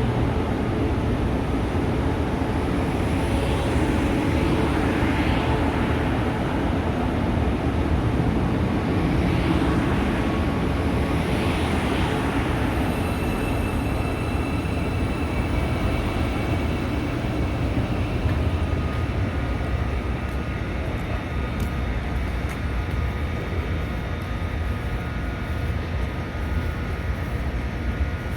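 A train running, a steady rumble with hisses that swell and fade about once a second in the first half; steady high whining tones come in about halfway through.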